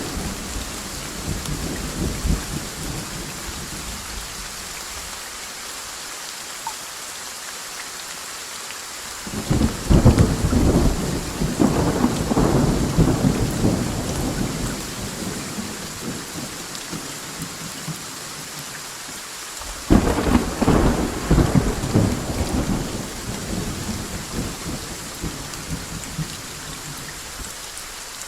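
Steady heavy rain with rolling thunder: a rumble dies away at the start, then two sharp claps of thunder, about nine and about twenty seconds in, each roll on and fade over several seconds.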